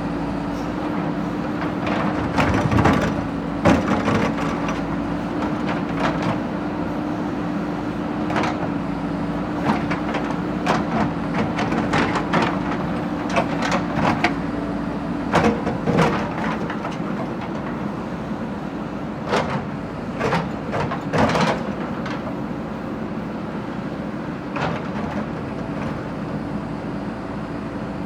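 Backhoe loader engine running with a steady hum, under irregular metallic clanks and knocks from the machine working. The hum fades out about two-thirds of the way through, while the knocks go on.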